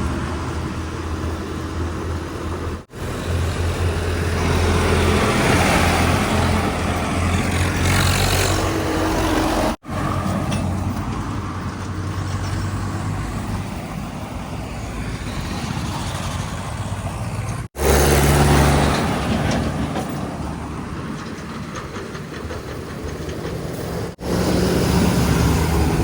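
Heavy diesel engines of earth-moving vehicles running and working, with strong low engine hum and machinery noise. The sound breaks off abruptly four times as one clip cuts to the next.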